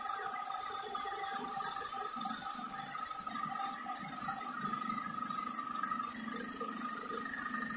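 A small motor-driven machine running steadily, a whir with two steady tones and a light rattle.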